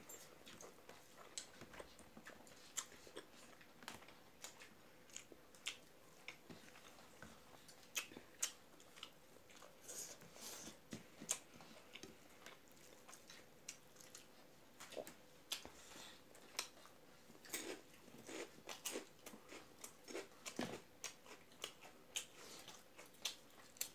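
Close-up eating sounds: wet chewing and lip smacks over mouthfuls of rice mixed with chamthong curry, eaten by hand. They come as soft, irregular clicks, a couple of times a second.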